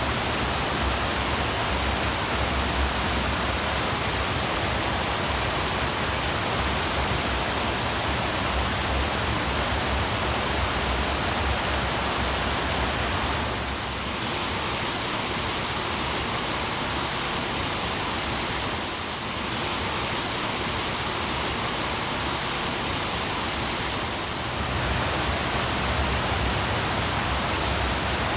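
Waterfall rushing: a steady, even roar of falling water with no breaks, dipping slightly in level three times in the second half.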